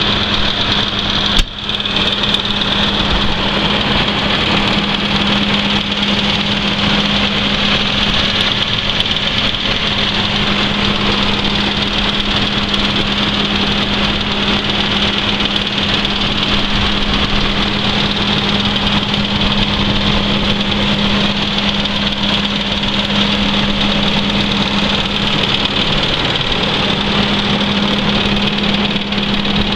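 Case IH 280 Magnum tractor's diesel engine running steadily at idle, a steady hum with a high whine over it. A single sharp click comes about one and a half seconds in.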